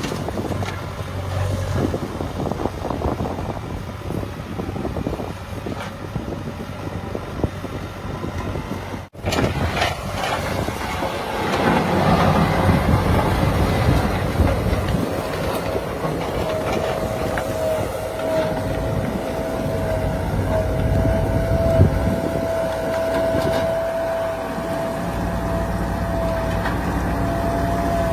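Heavy diesel machinery running with a steady low rumble, cut off briefly about nine seconds in. From about halfway through, a steady high whine sounds over the engine to the end.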